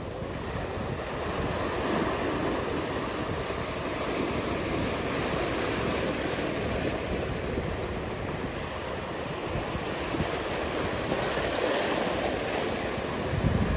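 Ocean surf: waves breaking and washing ashore, heard as a continuous rushing noise that swells and eases, with a louder surge near the end.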